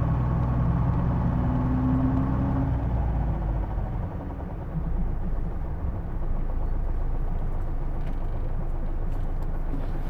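Hino Blue Ribbon II city bus's diesel engine and drivetrain heard from inside the cabin. Steady low tones, one rising slightly, fade after about three seconds into an even, rougher running noise.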